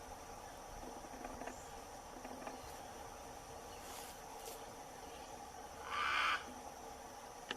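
Steady drone of insects in the background, with one short, harsh macaw squawk about six seconds in, the loudest sound here. A brief click comes near the end.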